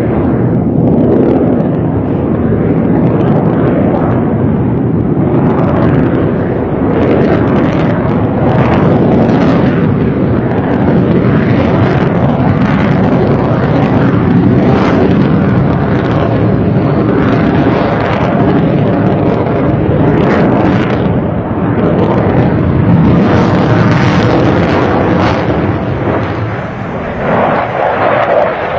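Sukhoi Su-57 fighter jet's engines, a loud continuous jet rumble with a dense crackle over it. The sound eases briefly near the end, then swells again.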